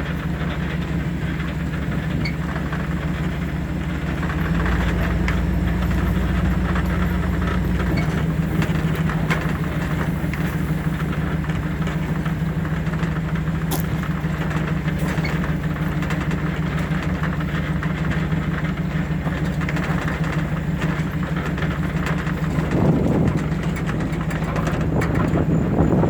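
A two-wheel-drive Chevy's engine running steadily while driving slowly off-road. It revs up a little about four seconds in and eases back a few seconds later.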